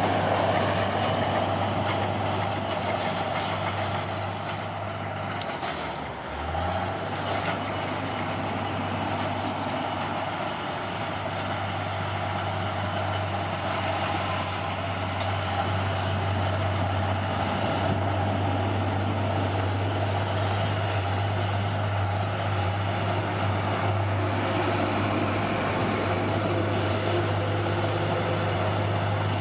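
Caterpillar D6R bulldozer's diesel engine running steadily. About six seconds in the revs briefly drop, then climb back up.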